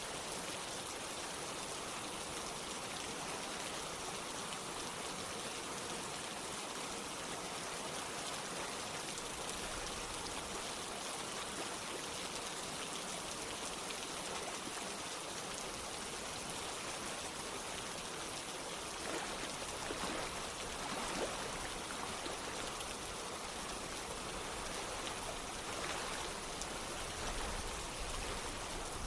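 Steady rain with running water, an even hiss, with a few louder drops or splashes about two-thirds of the way through.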